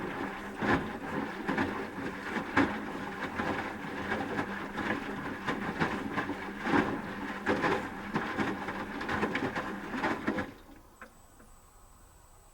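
Asko Quattro W6098X washing machine drum turning during the heating stage: motor hum with laundry tumbling and knocking inside the drum. The tumble stops about ten seconds in, as the drum pauses.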